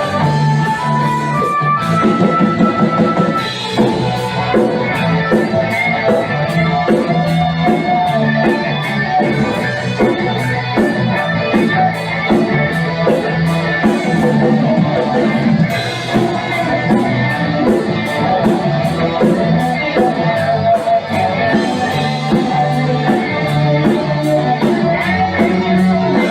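A band playing an instrumental passage: guitar over a drum kit keeping a steady beat.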